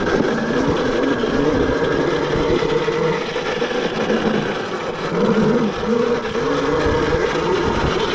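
Yozma IN10 electric dirt bike riding on a dirt trail: the motor's whine rises and falls with the throttle over a steady rushing noise.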